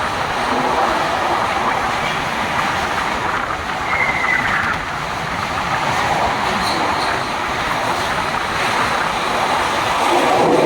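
Passenger express train running, a steady rumble and rattle of the moving coaches, with a brief high-pitched tone about four seconds in.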